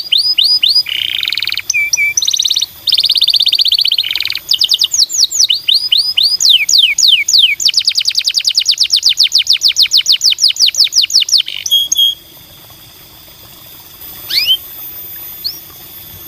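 Domestic canary singing a fast song of trills and rapid repeated sweeping notes, including a long, even roll; the song stops about twelve seconds in, leaving only a few short calls near the end.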